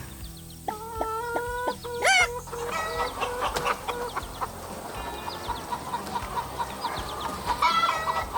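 Chickens clucking in a string of short calls, with one louder rising call about two seconds in, over quiet background music.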